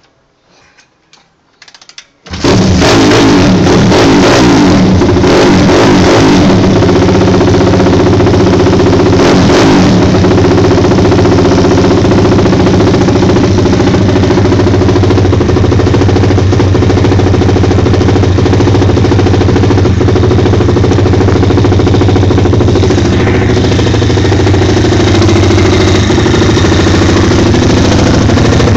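Stomp 150 pit bike's 150cc single-cylinder engine with a race exhaust starting about two seconds in and running loud and steady. It is revved briefly a few times in the first several seconds, then settles to an even idle.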